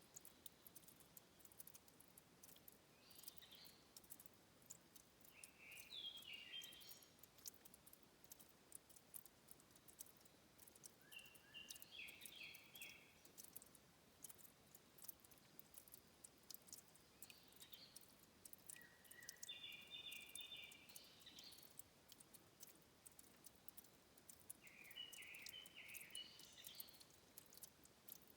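Faint headwater ambience: a small bird sings short trilled phrases five times, a few seconds apart, over a steady scatter of tiny drip-like clicks from water trickling at the spring.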